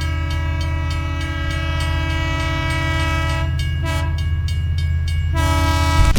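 Train horn blowing a held chord of several notes over the low, rhythmic rumble of a running train. It sounds in a long blast that stops about three and a half seconds in, then a brief toot, and then another blast near the end.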